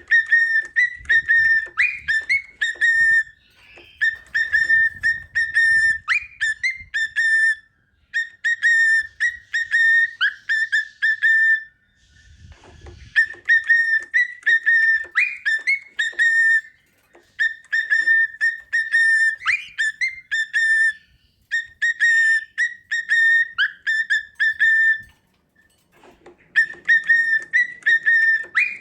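Cockatiel whistling the same short tune over and over: phrases of two to three seconds on one steady note with quick upward flicks, separated by brief pauses.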